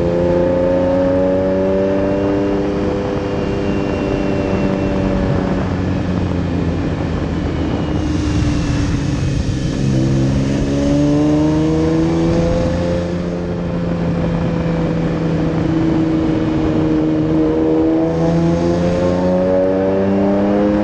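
Lamborghini Diablo SE30's mid-mounted V12 running under load, heard close up at the engine cover. Its pitch drops about six seconds in, climbs again about ten seconds in, and rises once more near the end as the car slows and accelerates.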